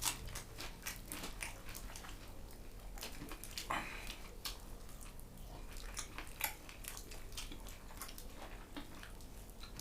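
Someone chewing and biting food close by, with irregular small crunches and clicks.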